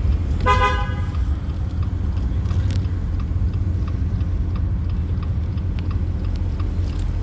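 Steady low rumble of an open Jeep driving with its doors off and top down. About half a second in, a brief car horn toot sounds.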